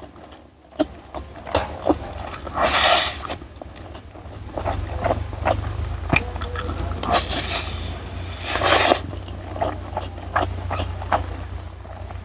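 Close-up slurping and chewing of instant noodles: a few loud slurps with wet chewing and mouth clicks between them.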